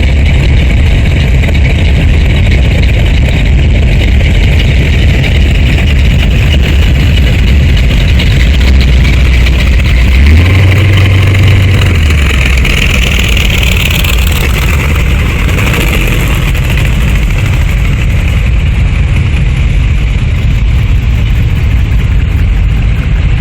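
Car engines running as parade cars go by slowly. About ten seconds in, one engine revs up briefly and settles back.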